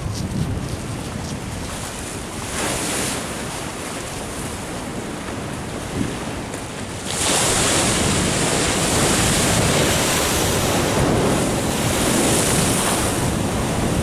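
Ocean surf washing against a sea wall, mixed with wind buffeting the microphone; the rushing turns suddenly louder about halfway through and stays loud.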